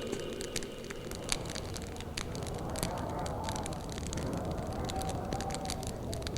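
Wood fire crackling, with frequent sharp pops and snaps over a steady low rumble. A faint, distant wolf howl rises and falls from about three seconds in.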